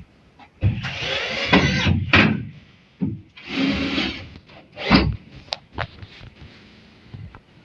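Several bursts of scraping or rubbing, each about a second long, with a few sharp knocks between them.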